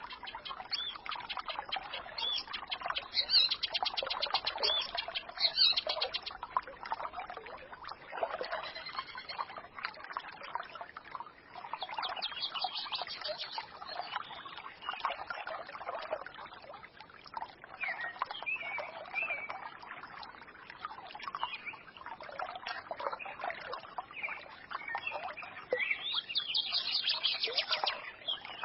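Small forest stream babbling and trickling steadily, with songbirds chirping over it and several bursts of rapid high trills.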